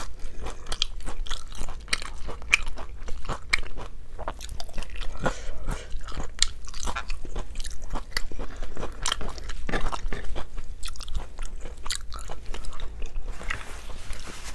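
Close-miked chewing and wet mouth sounds: irregular lip smacks and clicks as food is chewed, with fingers licked and sucked clean between mouthfuls.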